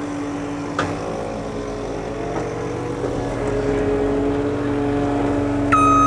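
Diesel engine of heavy demolition equipment running steadily, its pitch shifting a little, with a single knock about a second in. Near the end a reversing alarm starts beeping.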